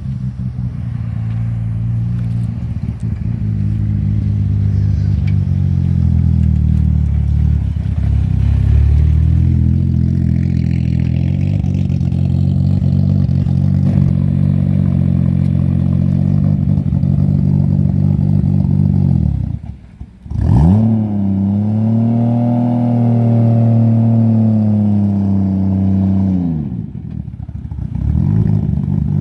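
Car engine running loud and close with a low, steady note. About twenty seconds in it cuts off sharply, then a higher engine note climbs, holds for several seconds and drops away before the low steady note returns.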